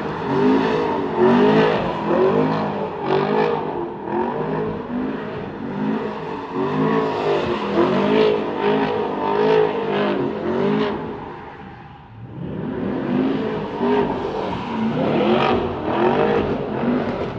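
Car engine revving in quick repeated surges, its pitch rising and falling over and over. It drops away briefly about twelve seconds in, then picks back up.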